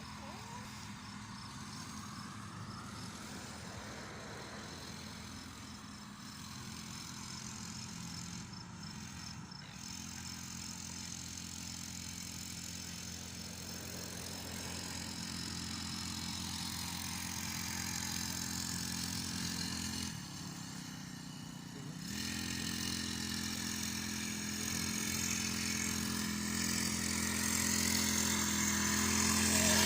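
Mini bike's small engine running steadily, its note shifting a few times as the throttle changes and growing louder near the end.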